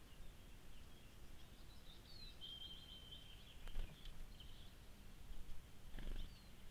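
Faint small-bird chirps and song over steady outdoor background noise, with one short held whistle note about two and a half seconds in. A sharp knock near the camera just before the four-second mark is the loudest moment, and a softer one follows near the end.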